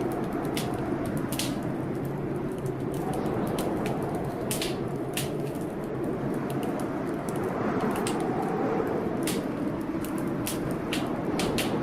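Wood fire crackling, with sharp irregular pops and snaps several times a second, over the steady rush of a rainstorm.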